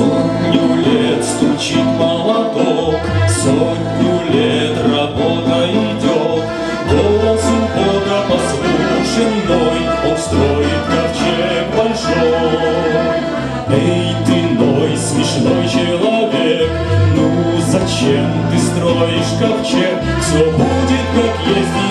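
Mixed choir singing a hymn in parts over instrumental accompaniment, with a steady bass line and a regular rhythmic pulse.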